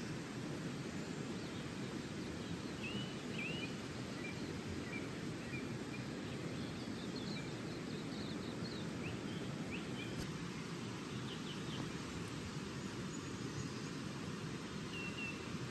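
Steady rushing water noise with short bird chirps and calls scattered over it.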